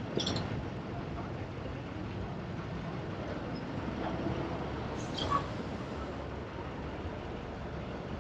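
Steady rumble of a vehicle running, with a brief click at the start and a short sharp clink about five seconds in.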